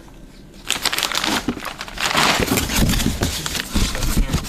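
Packaging being crinkled and rustled as parts are handled. It begins about a second in and goes on irregularly to the end.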